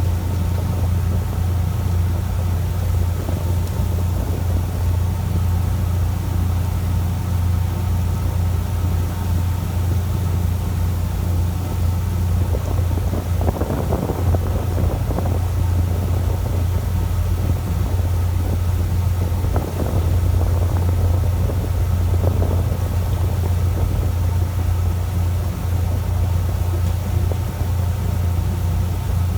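A fishing boat's engine running steadily with a deep, even hum, with a few brief swells of rushing noise about halfway through.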